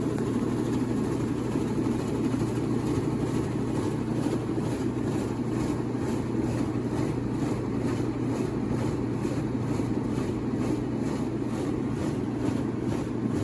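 Giantex portable all-in-one washing machine on its spin cycle: the motor runs steadily with a low hum as the drum spins the water out of the load.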